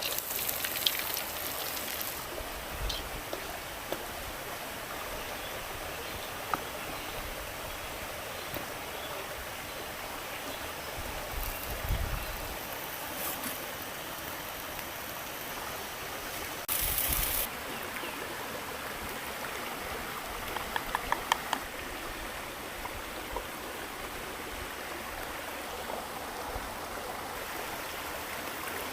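Stream water flowing steadily, with a few brief knocks and a short run of clicks over it.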